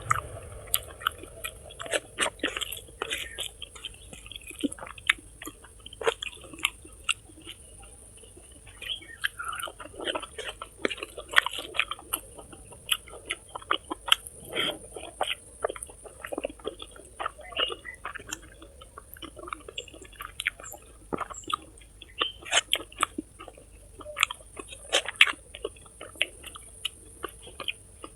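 Close-miked chewing and biting of food, with many short sharp wet clicks and smacks at an irregular pace.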